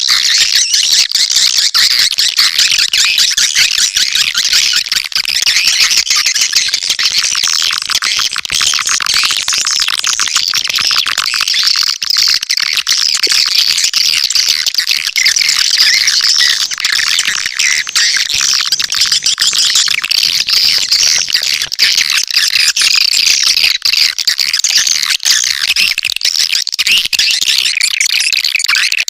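Swiftlet calling sound (suara panggil walet): a loud, unbroken chorus of high, rapid swiftlet chirping and twittering, the kind of recording played to lure swiftlets into a nesting house.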